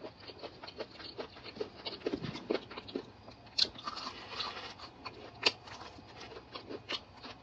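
Close-up chewing and biting of crispy fried chicken, with irregular crunches, smacks and small crackles of the fried crust.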